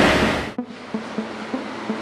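Loud rushing noise of the Citroën DS3's 1.2 PureTech engine pulling hard on the dyno cuts off abruptly about half a second in. It leaves background music with evenly spaced plucked notes.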